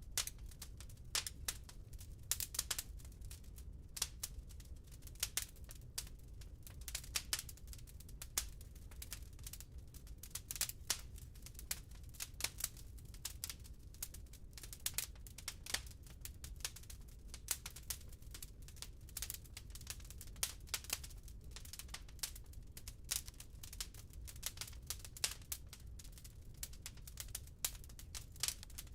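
Burning firewood crackling in a fireplace: a dense, irregular run of sharp pops and snaps, with a low steady rumble underneath.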